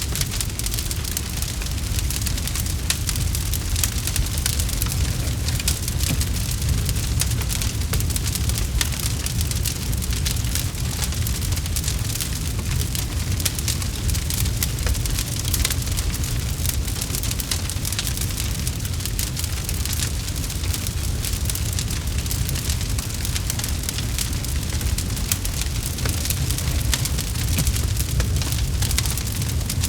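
Campfire crackling steadily: dense small pops and snaps of burning wood over a steady low rumble.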